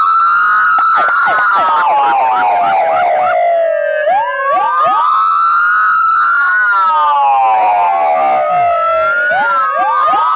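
Several emergency-vehicle sirens wailing together, sounded to mark the moment of the 1906 earthquake. Each slowly rises and falls about every five seconds, slightly out of step with the others.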